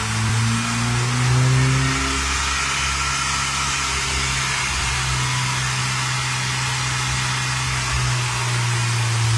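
Nissan Sentra VVL's four-cylinder engine running while being tuned: its revs rise over the first couple of seconds, then hold steady.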